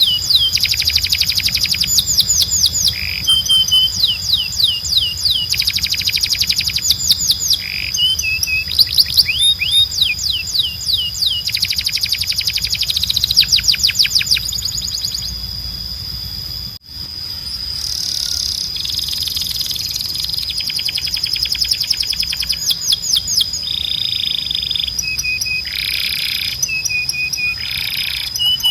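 Domestic canary singing: rapid trills of quickly repeated downward-sweeping notes, alternating with short held whistles, over a steady high tone and a low hum. The song breaks off for a moment about halfway through, then carries on.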